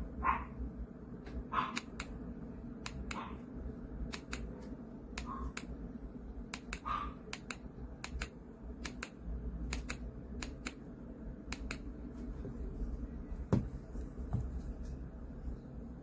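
HOMGEN white noise machine playing one of its built-in soothing sound tracks through its small speaker: irregular sharp crackles and clicks over a steady low rumble, with a few short higher notes in the first seven seconds.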